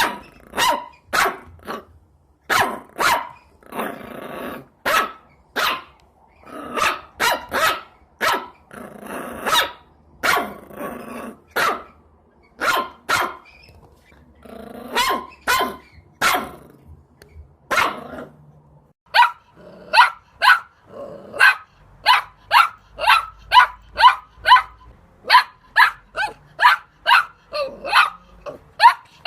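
Dog barking over and over, with rough growling between barks through the first two-thirds. Near the end the barks come quicker and more evenly spaced, about one and a half a second.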